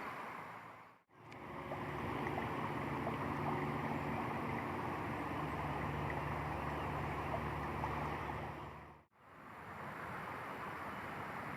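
Steady rushing of flowing water, cut off abruptly twice. The stretch between the cuts also carries a low steady hum.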